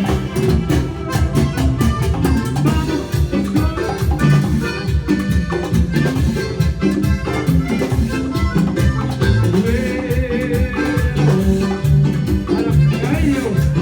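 Latin dance band playing an instrumental passage with a steady beat and a wavering melody line.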